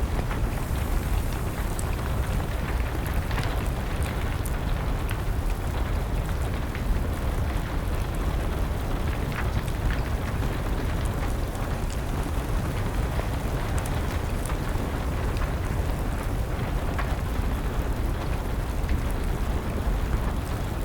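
Steady rain with a low, even rumble, and a wood fire crackling now and then with scattered sharp pops.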